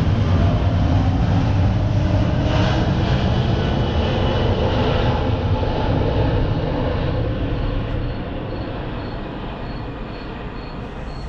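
Cummins 12-valve diesel engine running with a heavy, loud rumble, easing off and getting quieter from about seven seconds in.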